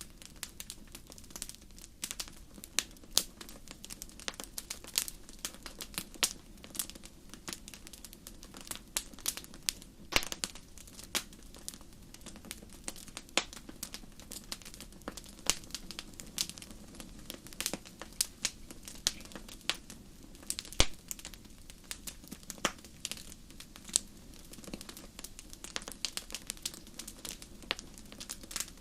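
Wood fire crackling: a steady stream of sharp, irregular pops and snaps, several a second, over a soft, low, constant rush.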